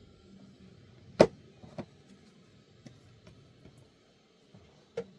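A sharp knock about a second in, a softer one just after, and another near the end, over faint background noise.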